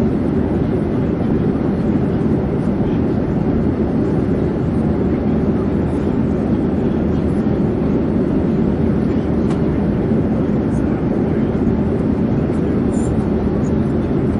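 Airplane in flight: a steady, unchanging low rumble of engine and rushing-air noise.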